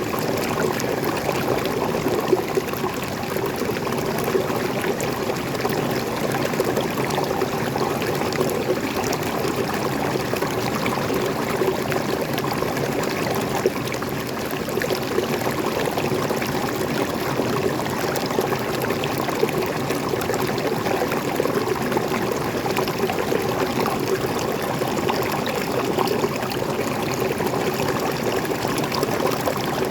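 Waterfall water pouring and splashing steadily, with small splashes flecking the constant rush.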